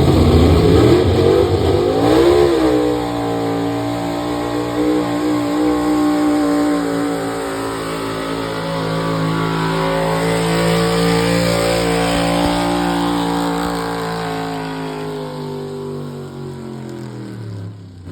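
Light pro stock pulling tractor's engine at full throttle under load, dragging the weight sled down the track: the pitch climbs in the first couple of seconds, holds high and steady, then sags and falls away near the end as the run finishes.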